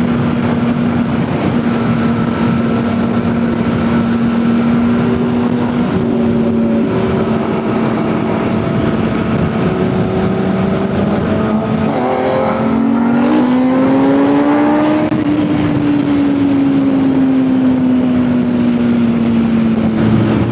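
Kawasaki ZX-10R's inline-four engine running at a steady cruise over a constant rush of noise. Its pitch climbs about two-thirds of the way through, then slowly falls away.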